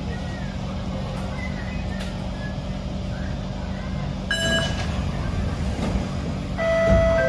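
Steady hum and rumble inside a Kawasaki C151 metro train car, with a brief electronic tone about four seconds in. Near the end a PA chime starts, one held tone stepping down to a lower one: the signal before the onboard announcement that the train is holding because the train ahead is still at the next station.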